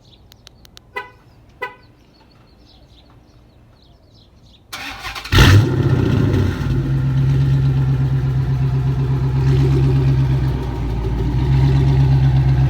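Two short horn chirps, then the Chrysler 300 SRT8's 6.1-litre HEMI V8 cranks and starts about five seconds in with a loud flare of revs. It settles into a loud, steady idle through its straight-piped, catless exhaust.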